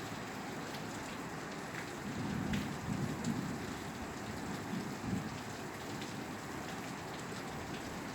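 Steady rain falling on a roof, a dense hiss with scattered single drops ticking. A low rumble swells for a few seconds in the middle and fades.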